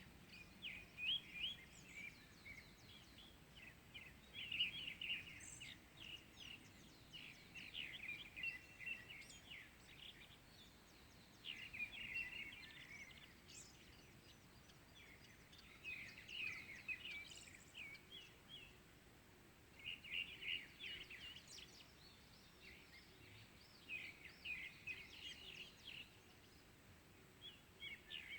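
A songbird singing in repeated phrases of quick, high chirps, each phrase a second or two long and coming back about every four seconds, over faint outdoor background noise.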